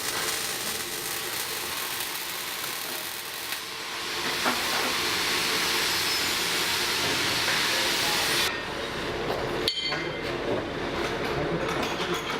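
Metalworking in a welding shop: a steady, hissing noise for about eight seconds, then a sudden change to crackling with sharp clinks.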